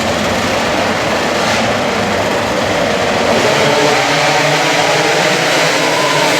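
Racing motorcycle engines running and revving, a loud steady din with wavering engine pitch.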